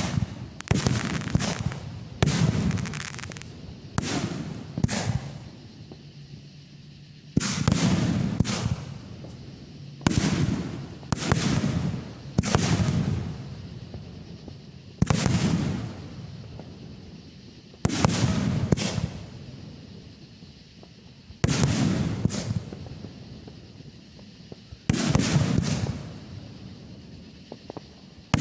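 Aerial fireworks bursting: sharp bangs, often in quick pairs, about every two to three seconds, each trailing off before the next.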